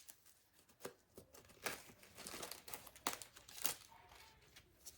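Faint crinkling and rustling of romaine lettuce being handled, with a few sharp light taps scattered through.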